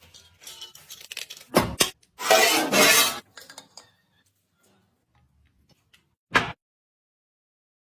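Cooking utensils clinking and scraping against pots and dishes: light clicks, a knock, then a louder second of scraping about two seconds in, and one more short knock near the end.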